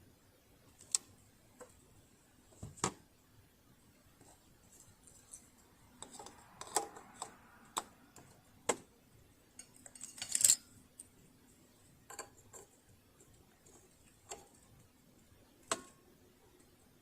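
Scattered light clicks and knocks at irregular intervals, with a short cluster of rattling about ten seconds in: small parts and tools being handled while working on a sewing machine.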